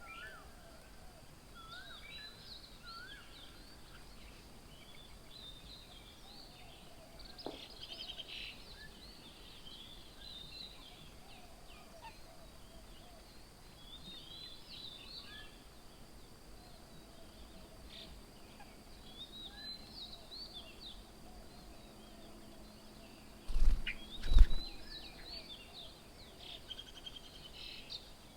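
Many birds chirping and calling over one another, with short high chirps throughout and a few rising whistled notes near the start. Two loud dull thumps come close together about three quarters of the way in.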